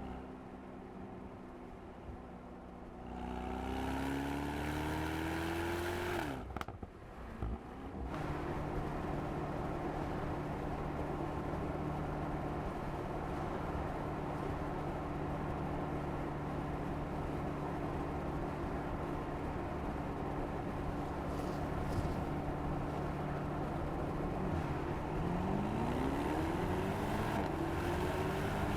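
Mercedes-AMG SL 63's 4.0-litre twin-turbo V8 on the move: it revs up a few seconds in, then runs at a steady pitch for most of the time, and revs up again near the end.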